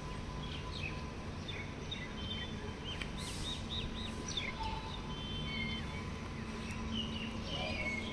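Small birds chirping repeatedly, quick short calls scattered throughout, over a steady low background rumble.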